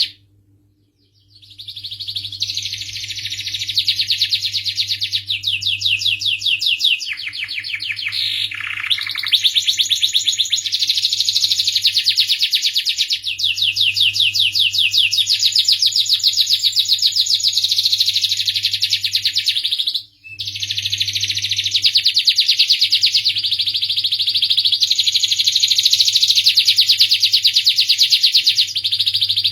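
Domestic canary singing a long song of rapid trills and rolls, breaking off briefly about a second in and again around twenty seconds in, over a faint steady hum.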